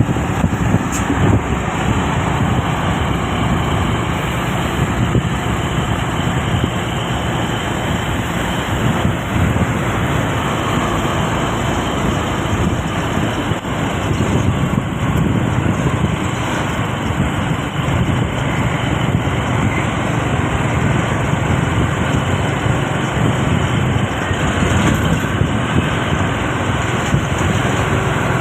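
Vehicle on the move: a steady engine drone with road and tyre noise, unbroken throughout.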